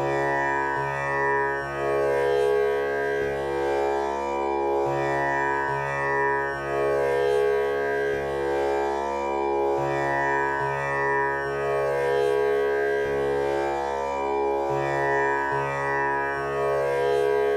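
Tanpura drone tuned to C#. Its strings are plucked one after another in a slow cycle that repeats about every five seconds, and the notes ring on and overlap into a continuous drone.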